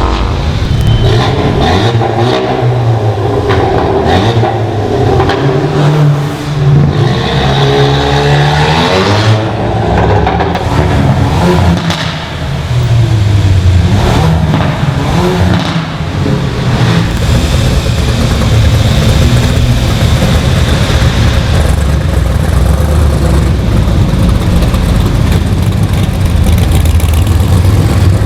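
Modified car engines revving and accelerating, their pitch climbing and dropping several times in the first ten seconds or so, with a few sharp cracks. After that comes a steadier low engine rumble.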